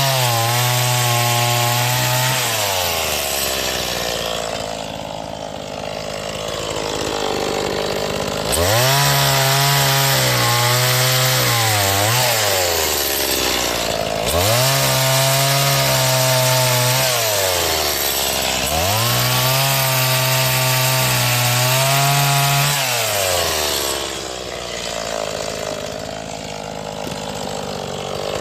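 Stihl MS 180 two-stroke chainsaw repeatedly revved to full speed and then dropped back toward idle, four bursts in all, with its pitch sagging slightly under load as it cuts wood.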